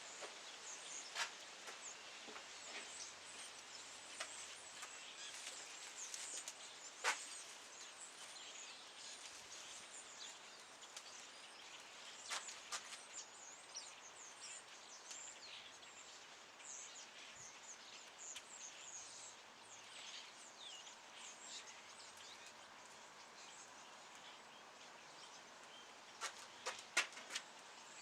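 Faint campfire crackling over a steady hiss, with a few sharp pops from the burning wood, several bunched together near the end.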